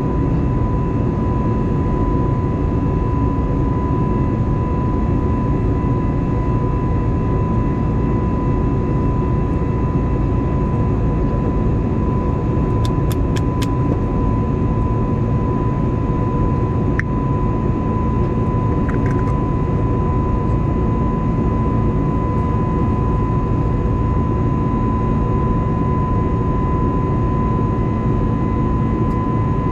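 Airbus A320neo cabin noise in flight: a steady rush of airflow and engine noise with a constant whine running through it. A few faint clicks come about halfway through.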